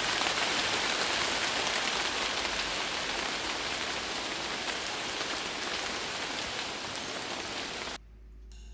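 Steady rain falling, with faint scattered drop ticks, slowly fading and then dropping away about eight seconds in.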